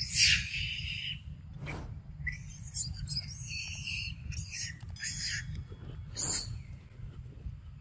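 Birds chirping in short, scattered high-pitched calls, over a steady low rumble.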